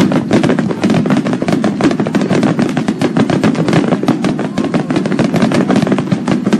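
A string of Chinese firecrackers going off in a rapid, continuous crackle of bangs, breaking off near the end.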